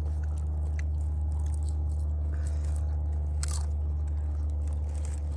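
Someone chewing and biting food close to the microphone, with a few faint crunches, over a steady low rumble.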